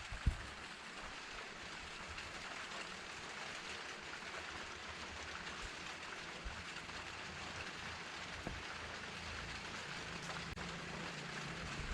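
Steady rainfall, an even patter of drops hitting a surface.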